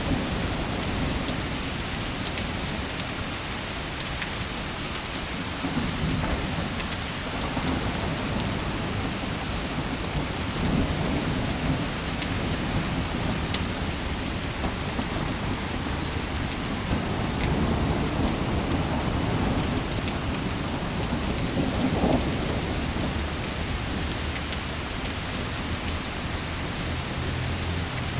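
Steady rain with low, swelling rumbles of thunder and a few sharp clicks scattered through it.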